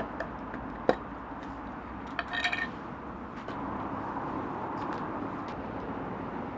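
Wood fire crackling, a few sharp pops over a steady background hiss. A brief high chirping sound about two and a half seconds in.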